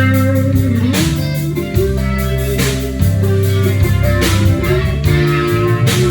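Rock band playing an instrumental passage live: electric guitar with several bent notes over bass and drums, a cymbal hit landing about every second and a half.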